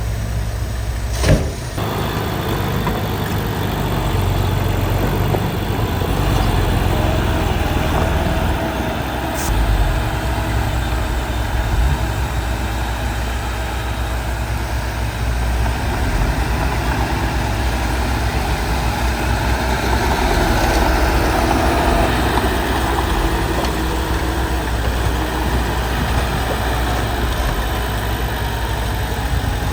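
Heavy diesel earthmoving machinery, a bulldozer working with dump trucks, running steadily with a low engine drone. A sharp knock sounds about a second in, and a fainter one later.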